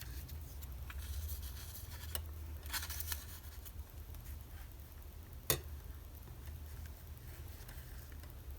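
Magazine paper cutouts being handled and moved around on a page: light rustles and small ticks, a brief cluster of rustling about three seconds in, and one sharp tap about five and a half seconds in, over a low steady hum.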